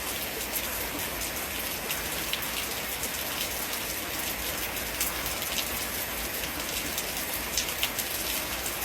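Steady rain falling, with many separate drops landing close by as sharp ticks over an even hiss.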